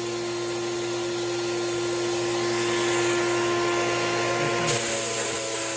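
Fuji Spray HVLP turbine running steadily with a constant whine. About three-quarters of the way in, a sharp hiss of air starts as the T70 spray gun's trigger is pulled for a test spray.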